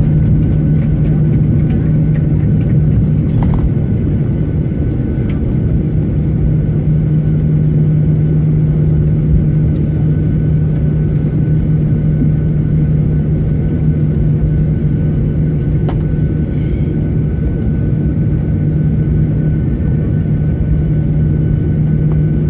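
Cabin noise of a Boeing 737-900ER on the ground after landing: its CFM56 engines running at low power, with a steady low hum and a thinner steady whine over a continuous rumble. A couple of faint clicks come through.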